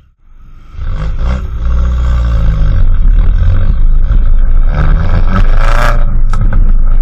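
Mini Clubman's turbocharged four-cylinder engine running through a modified exhaust, loud from about a second in, with the pitch shifting as it revs around the middle.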